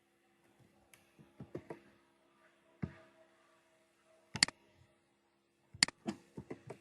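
Computer keyboard keystrokes and mouse clicks in scattered bursts, with a few sharp double clicks, over a faint steady hum.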